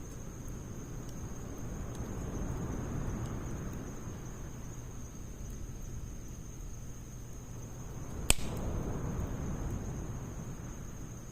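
Wood fire burning in a Snowpeak fire pit: a steady low rush of flame with faint crackles, swelling twice, and one sharp pop from the wood about eight seconds in.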